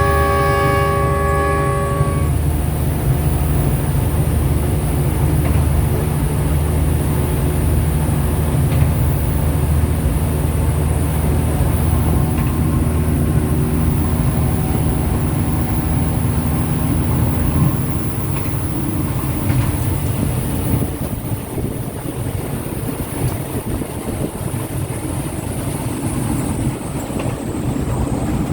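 Train horn sounding a held multi-tone chord that cuts off about two seconds in, over the steady low drone of the train's engine and its rumbling run along the track. The engine drone fades about eighteen seconds in, leaving the rolling rumble.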